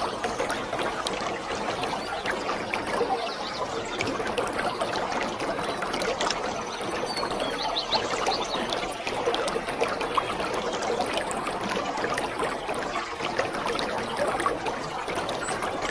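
Waterfall: a steady rush of falling water splashing, full of small splashes and droplets, with no change in level.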